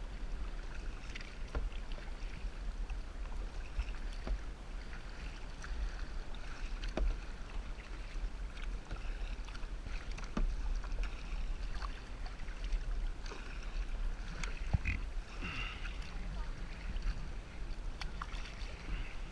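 Kayak paddling on the sea: irregular small paddle splashes and drips over a steady low rumble.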